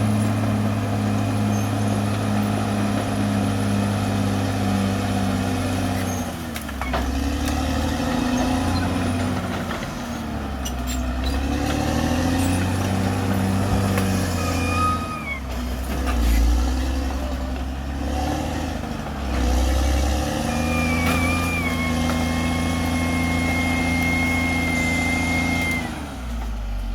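Caterpillar D6R XL bulldozer's diesel engine running, its note dropping and picking up again several times as the machine works. A thin high squeal joins it in the later part.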